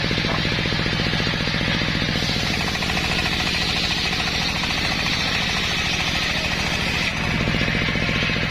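Engine-driven homemade circular sawmill running with a steady, even low beat. From about two seconds in to about seven seconds in, a bright hiss of the blade cutting wood joins it.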